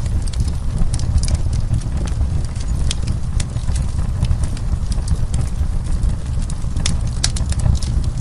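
Wood fire burning in a fireplace: a steady low rumble of the flames under irregular sharp crackles and pops of burning wood, with a cluster of louder pops near the end.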